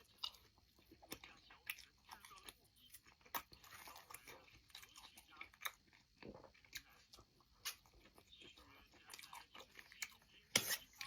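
Close-up eating sounds: a person chewing and biting into food, with irregular crunches and wet smacking clicks, the sharpest one about ten and a half seconds in.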